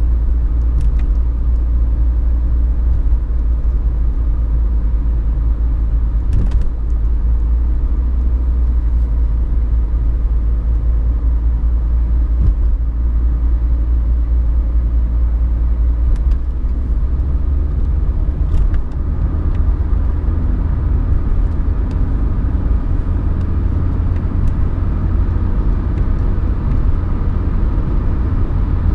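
Mercedes-Benz 190D 2.5 Turbo's OM602 five-cylinder turbodiesel running steadily while driving, heard from inside the cabin, with tyre and road rumble. The engine note shifts about halfway through and grows fuller in the second half. A few short clicks are heard.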